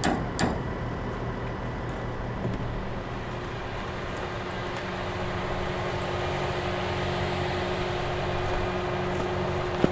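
Farm machinery engine running steadily, with a few sharp knocks at the start and a single sharp click near the end.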